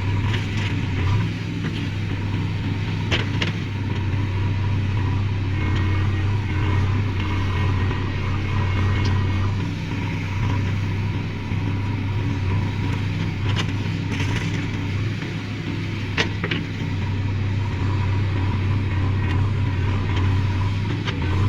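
Heavy diesel earthmoving engine running steadily at a constant speed, with a few sharp knocks about three seconds in and again around fourteen and sixteen seconds.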